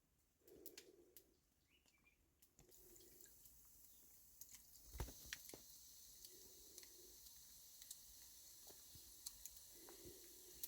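Near silence: room tone with a steady faint hiss, a few scattered soft clicks and a single duller knock about halfway through.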